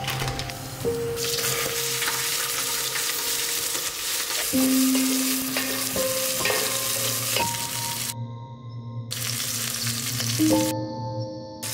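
Whole spices and sliced onions sizzling in hot oil in an aluminium pot, stirred with a wooden spatula. Soft background music with slow held notes runs underneath, and the sizzle cuts out briefly twice near the end.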